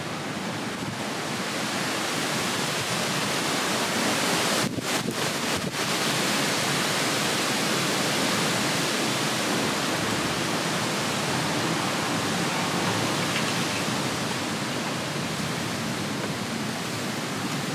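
Rain falling steadily, an even hiss; the hiss dips briefly a few times about five seconds in.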